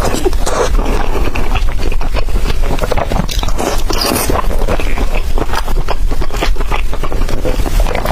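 Close-miked eating sounds: biting and chewing food, with a steady run of wet clicks and crunchy crackles.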